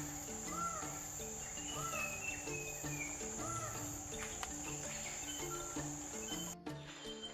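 Steady high-pitched insect drone with a bird giving short, arched calls about once a second, over soft background music with a slow pattern of low notes. The drone cuts off abruptly near the end.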